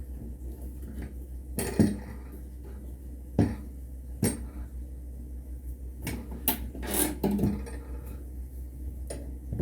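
A handful of separate knocks and clacks of hard objects being handled or set down, about six in all, over a steady low hum.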